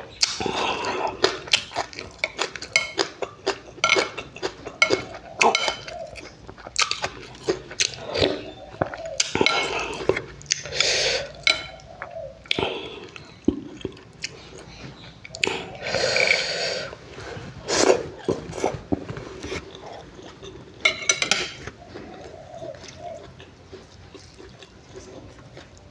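A person eating fish roe in a wet seafood pla-ra dipping sauce close to the microphone: wet chewing and many lip smacks, broken by a few longer, louder slurping sounds.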